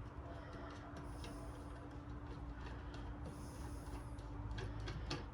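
Faint scattered clicks of a screwdriver working slotted screws loose in the saw's motor, over a faint steady hum.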